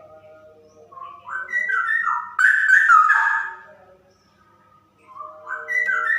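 Female straw-headed bulbul (cucak rowo) singing loud, fast runs of whistled notes that step up and down in pitch, in two phrases: one starting about a second in and lasting a couple of seconds, and another near the end.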